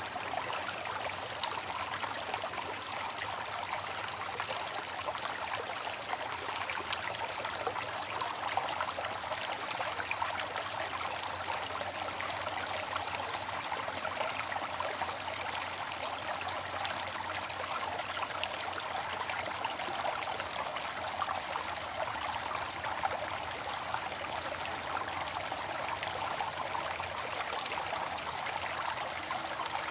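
Water fountain splashing and trickling steadily, an even rush of falling water with fine splashy detail and no change.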